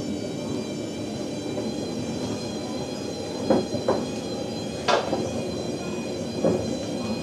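Whirlpool WWDC 7210/1 washer-dryer running with a steady rumble and a thin whine, broken by sharp knocks: two close together about halfway through, another a second later and one more near the end. The knocking is the funny noise the owner suspects comes from worn suspension.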